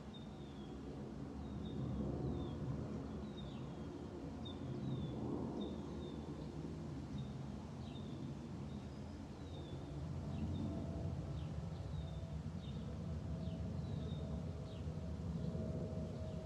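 Bird chirping in short, quick notes, about two a second, over a steady low rumble.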